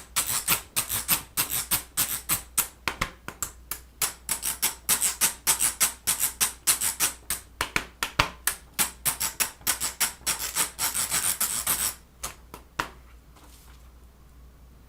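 Rapid back-and-forth rubbing or scraping strokes, about four a second, that stop about twelve seconds in.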